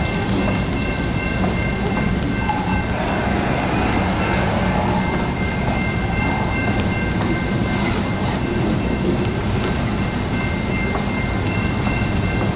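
Freight train tank cars rolling steadily past, a continuous rumble with the wheels clacking over the rail joints.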